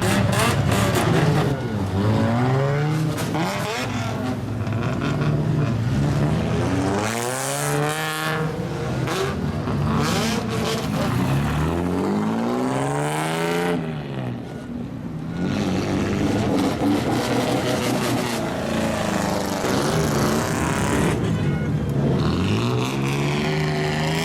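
Straight-piped exhausts of lowered kaido-racer cars, engines revved up and falling back again and again in loud rises of pitch.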